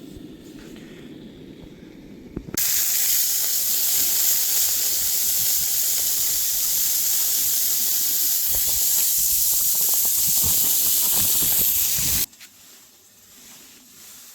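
Burger patties sizzling loudly on a hot griddle, a steady hiss that starts suddenly about two and a half seconds in and cuts off suddenly near the end.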